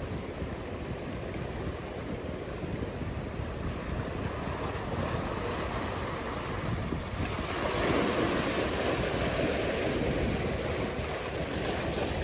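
Ocean surf washing steadily, with wind on the microphone; a wave breaks and rushes in louder about two-thirds of the way through, then eases off.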